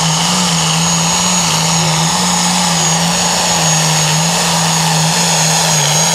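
Pro Farm class pulling tractor's diesel engine running flat out under load down the track, held at a steady, slightly wavering pitch, with a steady high whine over the engine noise.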